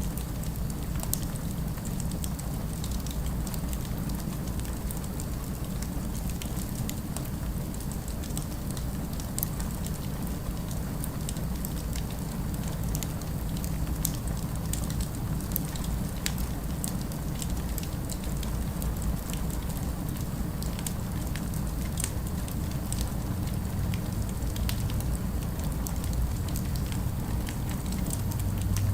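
Fire crackling, with scattered sharp pops and ticks over a steady low rumble of city ambience.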